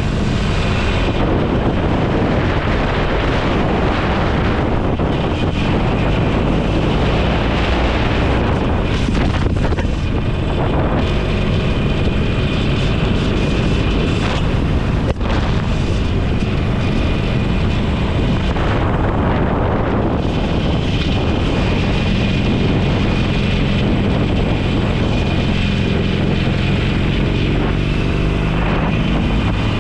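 Motorcycle under way on the road: the engine runs steadily under heavy wind noise on the microphone.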